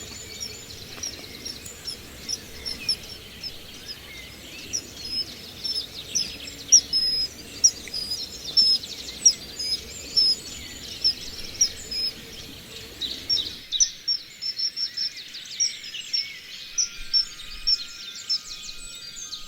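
Small birds calling in a dense stream of quick, high chirps and whistles over a low background hiss. The hiss drops out about two-thirds of the way through while the chirping carries on.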